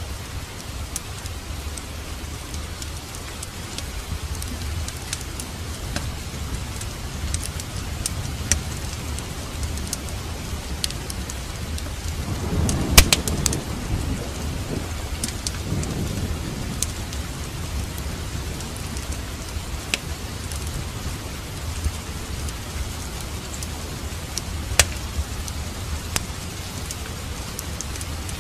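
Steady rain falling, with a low roll of thunder swelling about halfway through and a sharp crack at its peak. Scattered pops of a crackling fireplace fire run through it.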